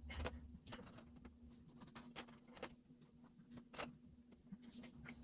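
Small metal engine parts and tools clicking and clinking lightly about a dozen times, over a faint steady hum.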